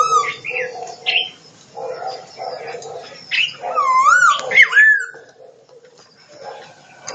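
Animal calls: several whistled, whining notes that glide up and down, in bouts through the first five seconds, with a sharp click near the end.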